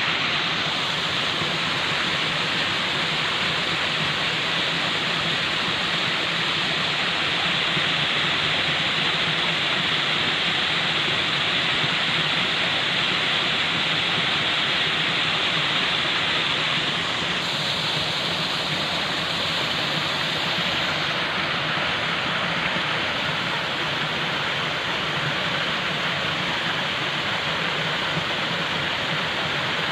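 Falling water splashing in a steady, unbroken rush, like a waterfall or cascade.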